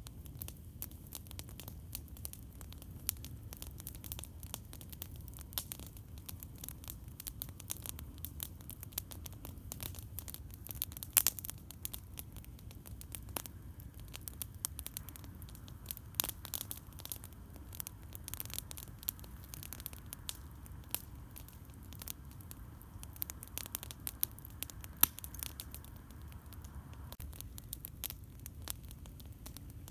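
Campfire crackling: frequent sharp pops and snaps at irregular times, over a steady low rumble.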